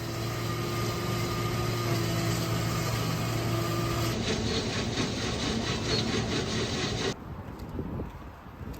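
A motor running steadily with a hum and a few steady tones over noise. The sound changes about four seconds in and gives way to quieter surroundings about seven seconds in.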